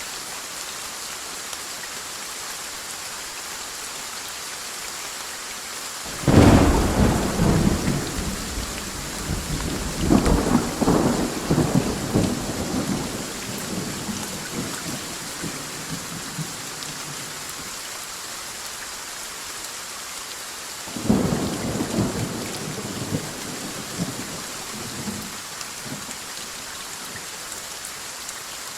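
Steady heavy rain with two claps of thunder: a loud, sudden crack about six seconds in that rumbles on for several seconds, and a weaker one about twenty-one seconds in.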